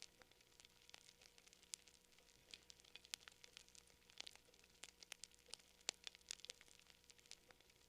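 Quiet campfire crackling: burning wood giving off irregular sharp snaps and pops, several a second.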